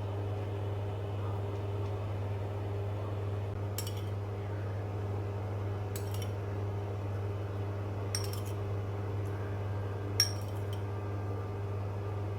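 Metal utensils clinking against cookware, a short clink about every two seconds with the loudest about ten seconds in, over a steady low hum.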